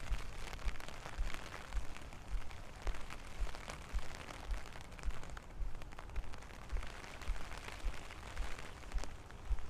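Steady rain with many drops pattering and ticking. Under it are low, regular thuds about twice a second from walking footsteps.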